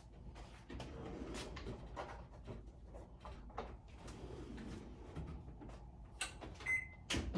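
Faint kitchen handling noises at the oven: scattered soft knocks and clatter, then a short electronic beep near the end followed by a sharp click.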